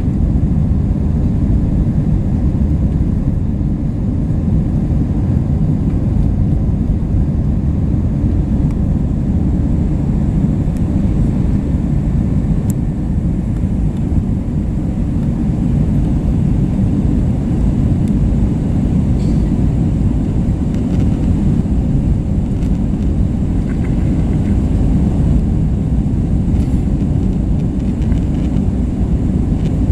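Steady low rumble of an Airbus A320's engines and airflow, heard inside the passenger cabin during the climb after takeoff.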